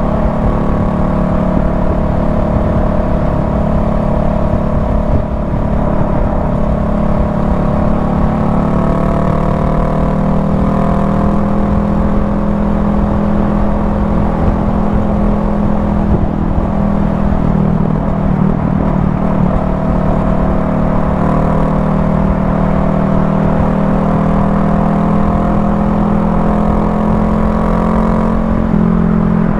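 Honda Rebel 500's parallel-twin engine running steadily at cruising speed, heard from the rider's seat over a dense low wind rumble on the microphone. The engine note shifts slightly in pitch a couple of times.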